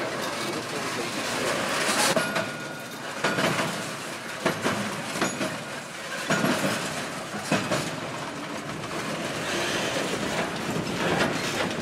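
Freight train of autorack cars rolling slowly across railroad diamond crossings, its wheels clanking sharply at uneven intervals as they strike the crossing frogs over the steady rumble of the cars. A short thin wheel squeal comes about two seconds in.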